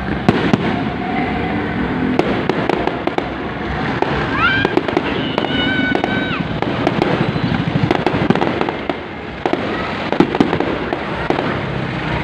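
Fireworks display: dense, continuous crackling and popping with sharp bangs throughout. About four seconds in, a high whistle rises and then holds for about two seconds.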